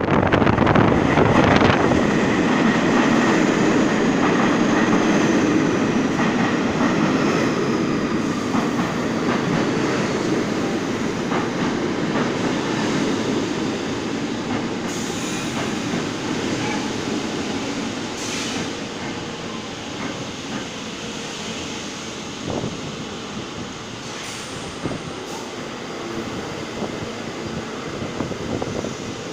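R46 subway train pulling into a station: wheels rumbling and clicking over the rails, loud at first and growing quieter as it slows, with a faint falling whine as it brakes.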